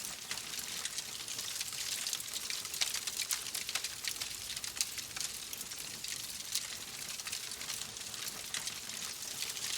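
Wood fire crackling: a steady high hiss dotted with many small, sharp, irregular pops.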